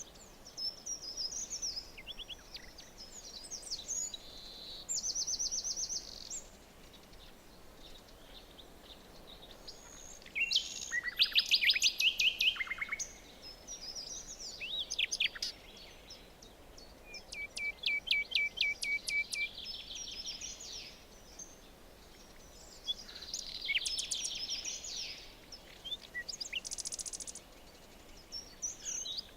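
Several songbirds singing in turn, with phrases of rapid trills and quick repeated notes, over a faint steady background hiss. The loudest song phrase comes about eleven seconds in.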